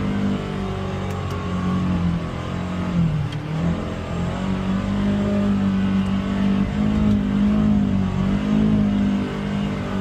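UTV engine working under throttle on a climb, its pitch rising and falling as the throttle is worked, easing off about three seconds in and then pulling again.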